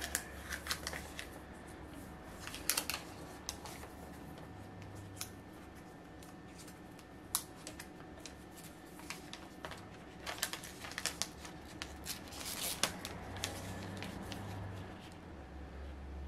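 Hands working the protective plastic film off a new POCO M3 smartphone: scattered clicks, taps and crinkles of thin plastic, over a low steady hum.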